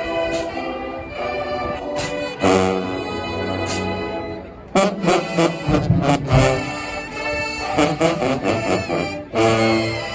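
Brass-heavy band music with horns sounding chords and sharp drum hits. The music drops back briefly at about the middle and then comes in loud again with busier hits.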